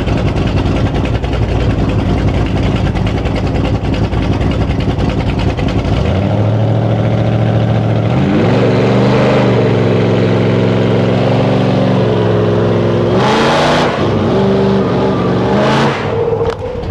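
Truck engines run at high revs under heavy load, straining against each other in a tug-of-war. About six seconds in, one engine note stands out, rises in pitch and holds, then drops near the end, with two short noisy bursts in the last few seconds.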